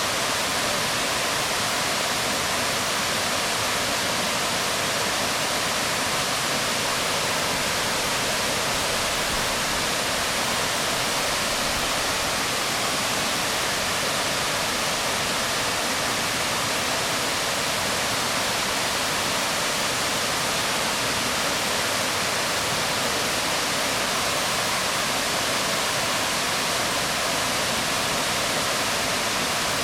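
Waterfall pouring onto rocks, a steady, unbroken rush of falling water.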